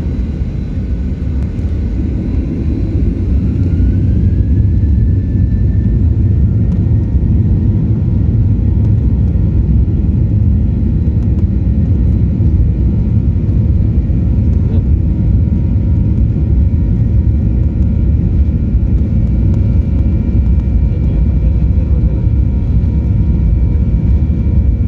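Boeing 737 MAX's CFM LEAP-1B turbofan engines spooling up to takeoff thrust, a whine rising in pitch in the first few seconds as the level climbs, then a loud steady rumble through the takeoff roll and climb.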